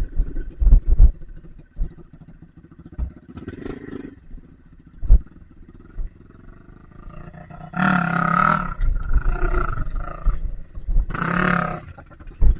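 Dirt bike engine revved hard in two bursts of about a second each, about eight seconds in and again three seconds later. Before them come scattered low knocks and thumps.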